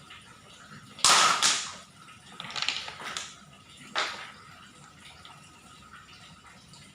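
Small stones clattering against a plastic toy truck in a few sudden bursts: the loudest about a second in, a quicker rattle of several hits around three seconds, and one more short clatter near four seconds.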